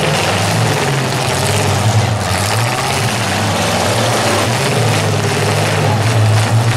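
Demolition derby cars' engines revving hard, rising and falling in pitch as the cars push and ram each other on dirt. A few crash impacts sound about two seconds in and near the end.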